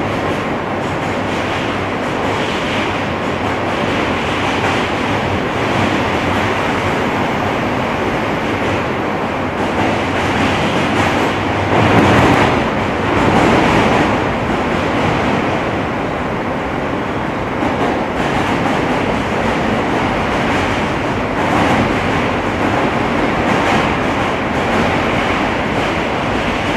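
R160 subway car running along the track, heard from inside the car: steady wheel and rail noise, with a louder burst of clatter about twelve seconds in.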